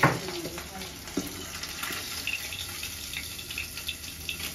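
Fish frying in oil in a wok, a steady sizzle, with a sharp clink of the metal ladle at the start and another about a second in, and small crackles over the sizzle.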